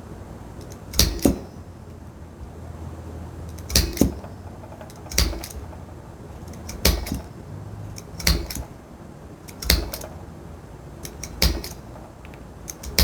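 Hammer blows driving a hole punch through leather: sharp knocks with a dull thud, about one every one and a half seconds, some in quick double strikes.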